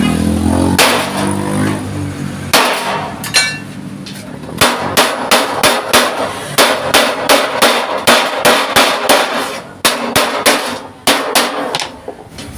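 Hammer blows on thick sheet steel being shaped into a panel: a few single strikes, then a steady run of about three blows a second. A low hum sounds under the first couple of seconds.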